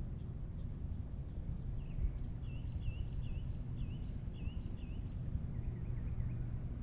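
A songbird singing a run of short, repeated slurred notes, about two or three a second, with a fainter run near the end, over a steady low rumble.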